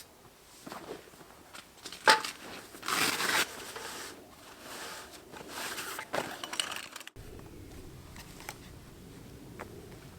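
Camp gear being handled: a sharp click about two seconds in, then rustling and scraping with scattered small knocks.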